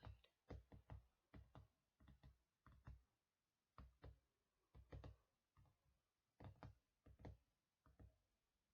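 Quiet ASMR finger tapping, irregular soft knocks in small clusters of two or three, with short pauses between groups.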